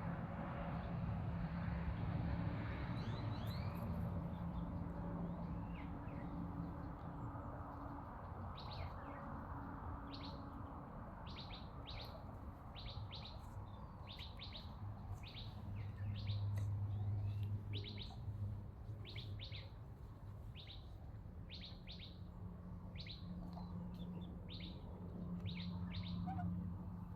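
A small bird calling a long run of short, high, sharp chip notes, about one and a half a second, starting about a third of the way in. A steady low hum and outdoor background noise lie underneath.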